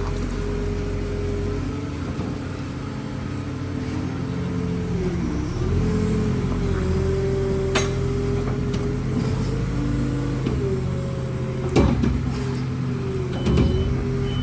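Diesel engine of a farm telehandler running steadily. Its pitch dips and recovers twice as the engine takes load. A couple of sharp knocks come near the end.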